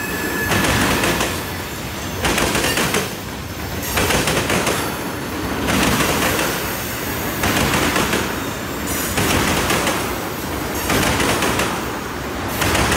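Train cars rolling past on the rails, with a clatter of wheels that swells and fades in a steady rhythm about once a second.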